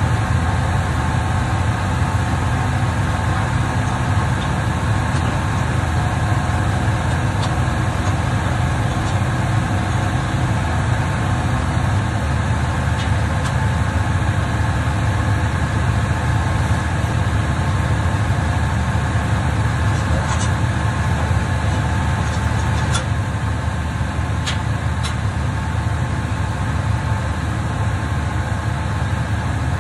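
An engine running steadily at constant speed, with a few faint clicks over it near the end.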